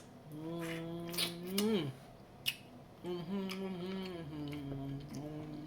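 A woman humming with her mouth closed in two long "mmm" hums, the first ending in an upward swoop and the second stepping in pitch, while eating crab claws. A few sharp clicks from handling the cracked crab shells come in the first half.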